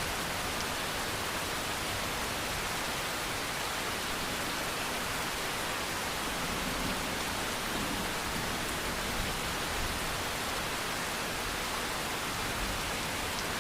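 Steady rain falling, a continuous even hiss without distinct separate drops or thunder.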